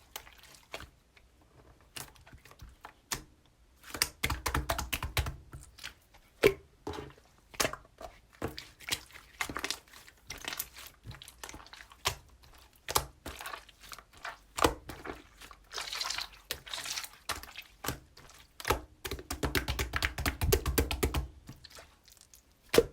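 Hands squishing, stretching and poking a blue slime, making rapid crackling clicks and small pops, in denser runs about four seconds in and again near the end.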